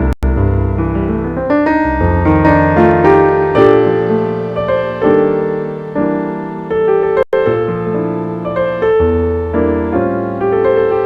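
Jazz piano playing: chords over low bass notes. The sound cuts out for an instant twice, just after the start and about seven seconds in.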